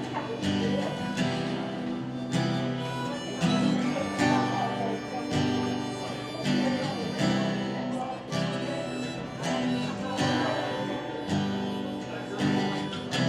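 Live band playing an instrumental break of a slow rootsy ballad, with a guitar taking a solo over strummed rhythm guitar.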